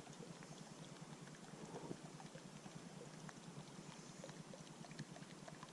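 Near silence: a faint outdoor background with a few scattered faint ticks.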